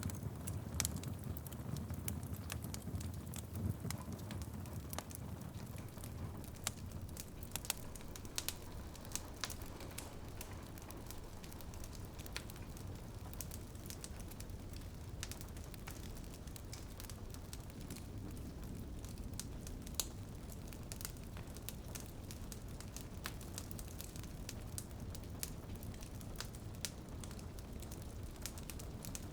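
Wood fire crackling in a fireplace, with scattered sharp pops that are thicker in the first ten seconds or so, over a steady low rush and light rain pattering on a window.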